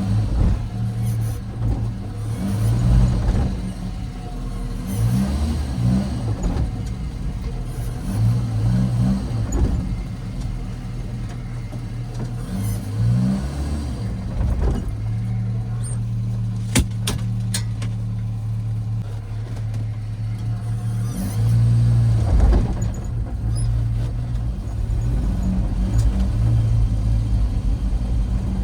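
The 1966 Volvo 122's B18 1.8-litre four-cylinder engine driving on the road, its pitch climbing several times as it accelerates through the gears, with steadier cruising between. A few sharp clicks come about 17 seconds in.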